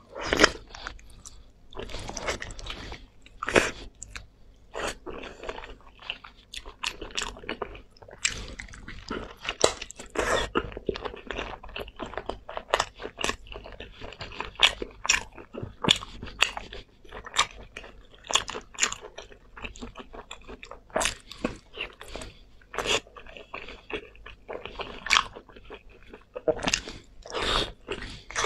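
A person biting and chewing spicy meat on the bone: a steady run of sharp, irregular crunches and chewing sounds.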